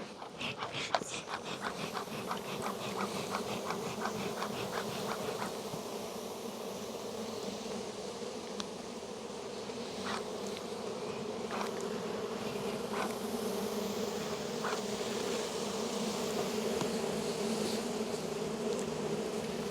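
A crowded honey bee colony buzzing steadily from the opened hive. A quick run of regular clicks over the first five seconds and a few single clicks later are handling noises at the hive.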